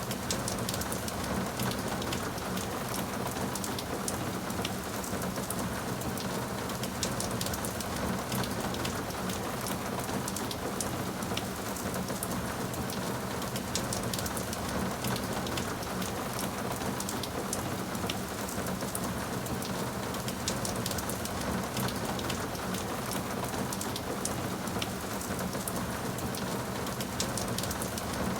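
Steady rain falling on a hard surface, many individual drops pattering through an even hiss.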